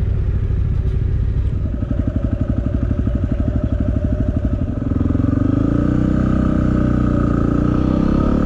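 Motorcycle engine heard from on board while riding, at first a low, even pulsing note; about five seconds in it gets louder, rises in pitch and then holds steady.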